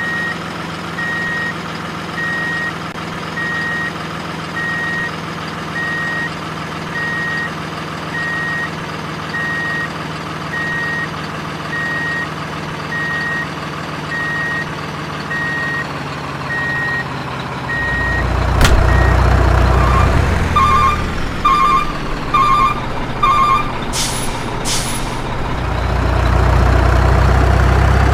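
A truck's reversing beeper beeps steadily, a little more than once a second, over an idling diesel engine. About two-thirds through, the engine gets louder, followed by four short beeping bursts and two short air-brake hisses, and the engine then runs on.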